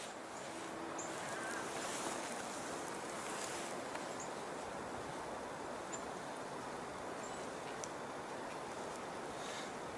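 Steady outdoor rushing noise, like moving water or wind. A few faint, short, high bird chirps come through it.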